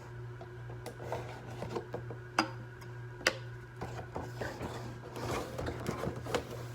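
Action-figure packaging being handled and pried at: scattered light clicks and rustling of plastic and cardboard, with two sharper snaps about two and a half and three and a half seconds in, over a steady low hum.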